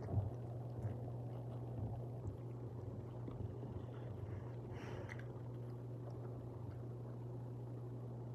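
A steady low hum with faint, scattered soft clicks and smacks of someone chewing food with the mouth close to the microphone.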